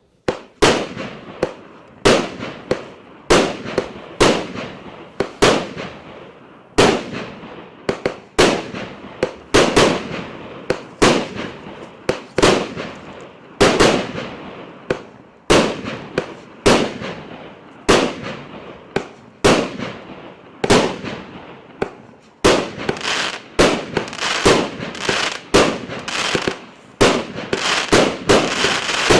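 A 36-shot FeuerLand 'Hot Safari' EC474 fireworks cake firing its shots in steady succession, about one to two a second, each shot ending in a trail of crackle. Near the end the shots come faster and the crackling grows denser.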